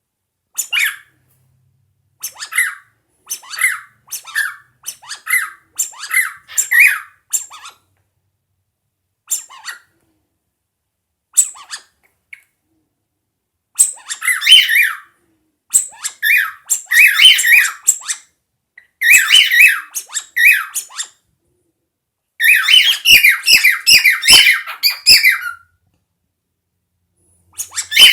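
A cockatiel chirping and warbling: short separate chirps over the first several seconds, then longer, dense warbling phrases in the second half, with a run of sharp clicks inside the last phrase.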